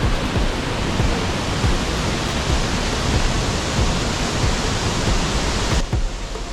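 Steady roar of a waterfall, Copper Falls, heard close up as an even rush of water. It cuts off abruptly near the end.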